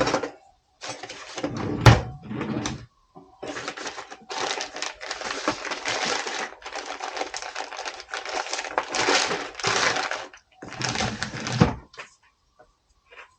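A plastic zip tie being pulled tight through its ratchet head in a series of pulls, each a rasping run of rapid clicks, some of the middle pulls longer. It is cinched around the CV axle's retaining ring to hold it compressed.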